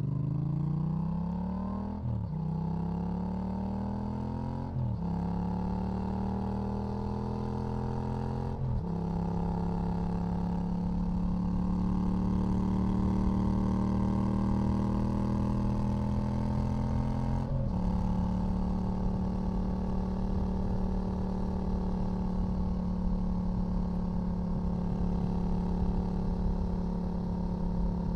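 2018 Yamaha XSR700's 689 cc parallel-twin engine through a LeoVince LV One EVO full exhaust system, accelerating through the gears. The engine note climbs and drops sharply at each of four upshifts, about two, five, nine and eighteen seconds in, then holds a steady cruise.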